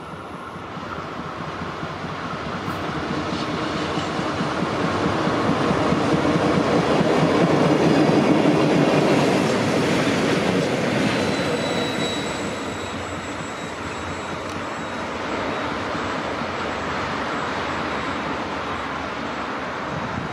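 Freight train of sulfuric-acid tank wagons, hauled by a diesel locomotive, approaching and rolling past. The sound swells to its loudest about eight seconds in as the locomotive passes, then settles to the steadier rolling of the wagons on the rails.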